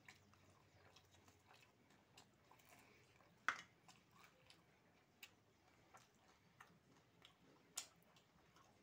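Faint chewing and small mouth clicks from a person eating fried fish by hand, with two sharper clicks, the louder about three and a half seconds in and another near the end.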